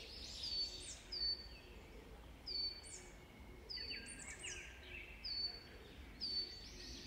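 A small bird chirping over and over in a quiet outdoor recording. Each chirp is a short high note that drops sharply in pitch and then holds briefly, some of them in quick pairs, coming roughly once a second.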